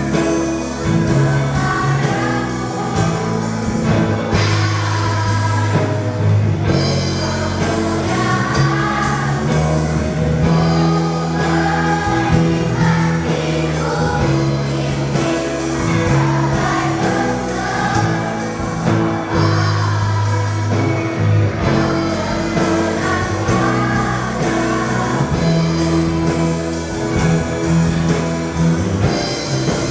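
Sunday school children's choir singing a hymn of praise in unison, over instrumental accompaniment with a steady bass and beat.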